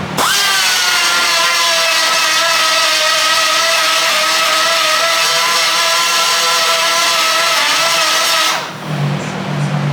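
Electric angle grinder spinning up sharply and grinding metal, its high whine sagging slowly in pitch under load over a hiss of grinding, then switching off about a second before the end.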